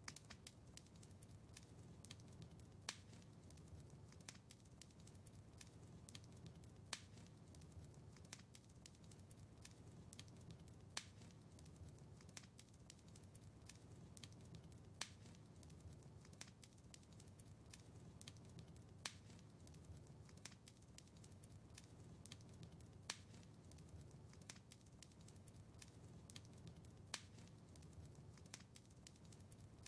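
Wood fire crackling faintly: scattered small snaps over a low rumble, with a sharper pop about every four seconds.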